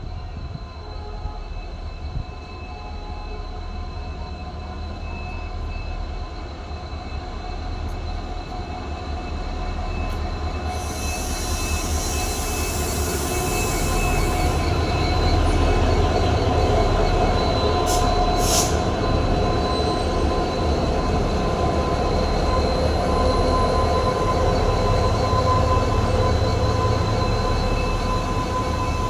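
Two EMD diesel-electric locomotives, a WDP4B and a WDP4D with 16-cylinder two-stroke EMD 710 engines, humming steadily and growing louder. A loud hiss lasts a few seconds about eleven seconds in, and two brief sharp high sounds come around eighteen seconds.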